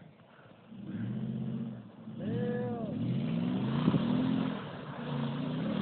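Nissan Titan pickup truck's engine revving up and down as the truck drives on after landing a jump, starting about a second in.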